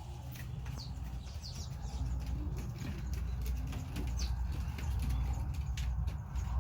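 Farm birds moving about: a few short high chirps and some scattered clicks or flapping, over a steady low rumble.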